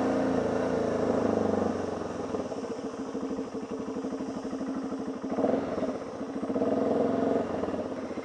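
Motorcycle engine easing off from slow riding to a pulsing idle about two seconds in, with two short blips of the throttle while the bike is manoeuvred to a stop.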